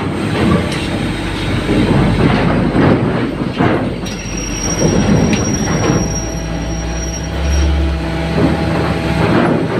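Vehicles rolling off a ferry during unloading: engines running with irregular metallic clanks and rumble, a thin high squeal from about four seconds in, and a steady low engine drone through the second half.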